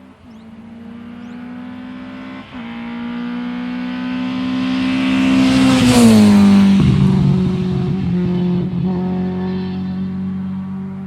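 Lada rally car's four-cylinder engine passing by at full throttle. It grows louder, shifts gear once about two and a half seconds in, peaks about six seconds in with a sharp drop in pitch as it goes past, then fades away at a steady pitch.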